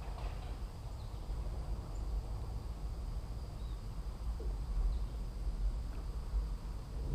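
Outdoor ambience: a steady low rumble under a faint, even high-pitched insect drone, with a few tiny faint sounds.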